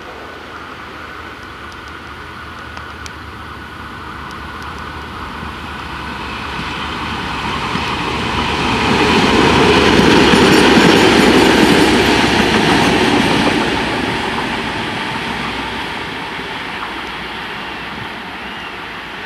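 A train passing by: the rumble of the wheels on the rails builds steadily, is loudest about halfway through, then fades away.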